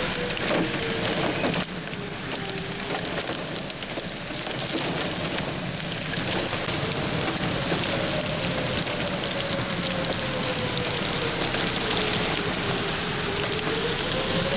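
Torrential rain pouring down in a severe thunderstorm, a dense steady hiss. Through it runs a thin tone that slowly rises and falls in pitch.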